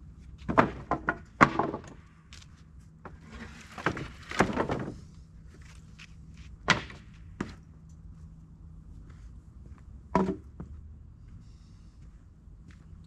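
Irregular knocks and thuds of objects being handled and set down, with a longer rustling scrape around four seconds in, over a faint steady low hum.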